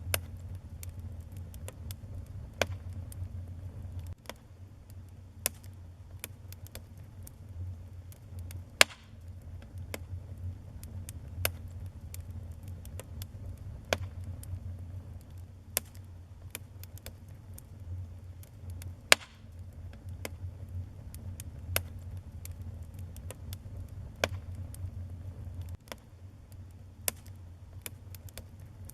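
Wood fire burning in a fireplace, with a steady low rumble of the flames and sharp, irregular crackles and pops of burning logs, a few of them loud.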